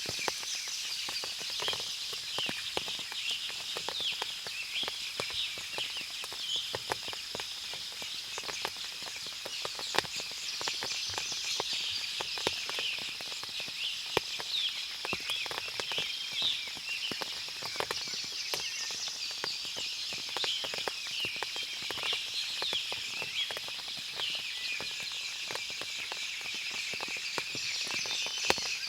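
Forest ambience after rain: many birds chirping over a steady high hiss, with frequent light ticks and clicks throughout.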